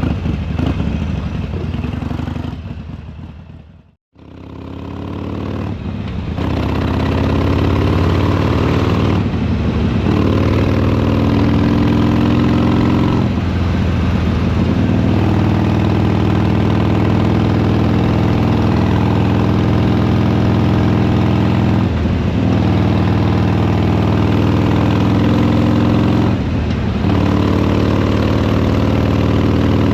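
Harley-Davidson Sportster Iron 883's air-cooled V-twin running on the road, its exhaust sound fading out and back in about four seconds in. It then pulls up through the gears, the pitch climbing and dipping briefly at each shift, four times.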